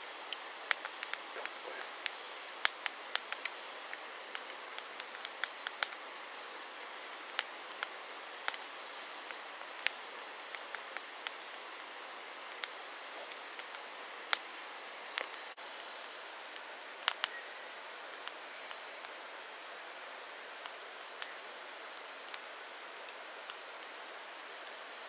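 Wood campfire crackling: irregular sharp pops and snaps over a steady hiss, with the pops coming thickly at first and thinning out later.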